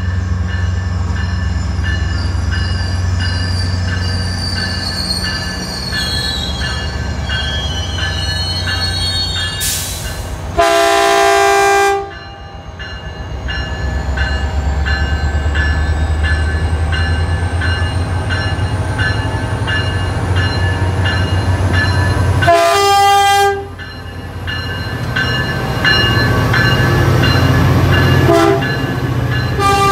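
Caltrain F40PH diesel locomotive arriving with a steady low engine rumble, over a high wavering squeal from the train during the first ten seconds or so. It sounds its multi-note air horn twice, a blast of about a second and a half and then a shorter one about twelve seconds later, and a third blast starts right at the end as the locomotive passes close by.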